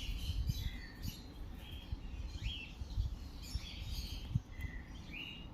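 African lovebirds chirping in their cages: short scattered calls, a few of them rising, with low knocks and rumble underneath.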